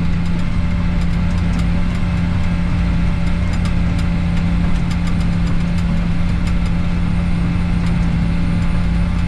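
Bulldozer diesel engine running steadily under work, with a constant low tone and a few faint clicks.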